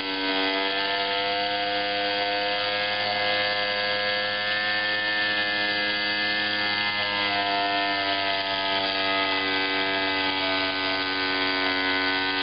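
Tiny twin-cylinder Philcraft marine steam engine running fast, just after being flicked into motion under steam: a steady buzzing whirr whose pitch wavers slightly.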